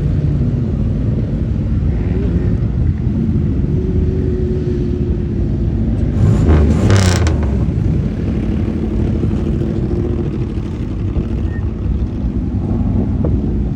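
Car engines running as cars pull out, a continuous low rumble. About six to seven seconds in, one car comes through louder and briefly rises to a peak.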